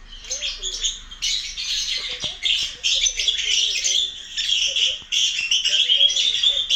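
Lovebird chattering and squawking in a continuous stream of shrill, high-pitched calls, calling out for its companions.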